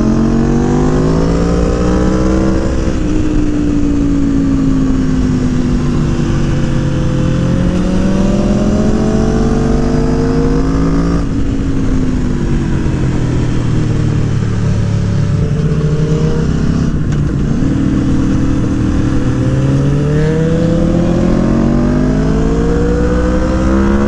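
Aprilia Tuono Factory motorcycle engine, fitted with a Gabro Racing Stage 3 tuned engine kit, pulling through the revs while riding. Its pitch climbs and falls again several times as the bike accelerates and eases off.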